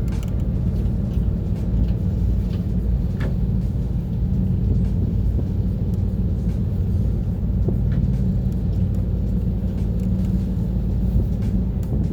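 Steady low rumble of a boat under way, with a few faint ticks.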